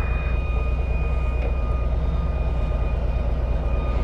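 Motorcycle engine running steadily with a low rumble, and a faint steady high whine above it.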